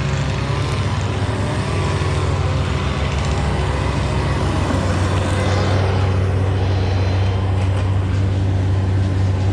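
An engine running steadily, its pitch dropping about four to five seconds in.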